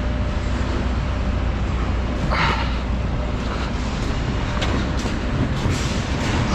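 Steady low rumble of an idling truck engine, with a brief noise about two and a half seconds in.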